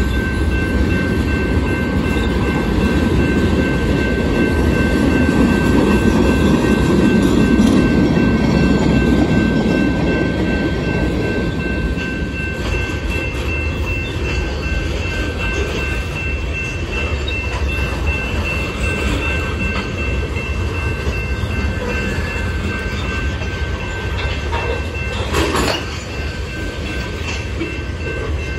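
Freight train of tank cars and boxcars rolling steadily past, with the wheels rumbling on the rails and a thin steady high-pitched tone over it. The rumble is loudest several seconds in, and there is a single sharp clank about 25 seconds in.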